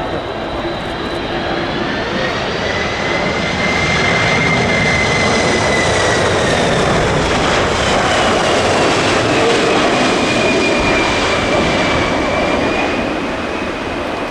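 Jet airliner passing low on its landing approach: a rush of engine noise that swells and then eases, with an engine whine that falls in pitch as it goes by.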